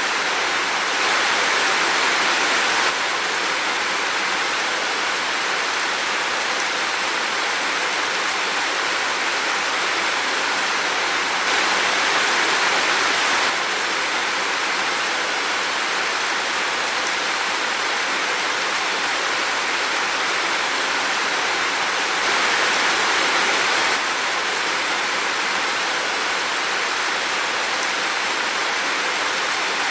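Heavy rain falling in a dense, even hiss, getting a little louder three times for a couple of seconds each, about ten seconds apart.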